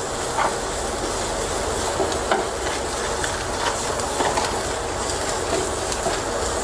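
Onions frying on high heat in a nonstick pan, sizzling steadily, while a wooden spatula stirs them and scrapes the pan now and then.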